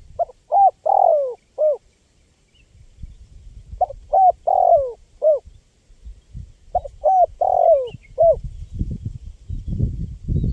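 Spotted dove (tekukur) cooing: three repeats of its short phrase, each of a few notes with a longer slurred note in the middle. There is low rumbling noise underneath that grows toward the end.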